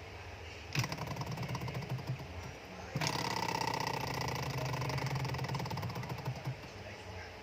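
Small model Stirling engine running, a fast, even mechanical clatter that starts about a second in, grows louder a couple of seconds later and stops near the end.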